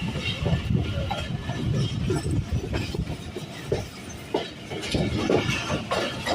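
Train running on the rails: a low rumble with irregular knocks and clatter from the wheels and cars.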